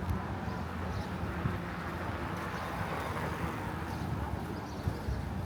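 Steady outdoor seafront ambience: a low rumble with a faint hiss that swells slightly around the middle.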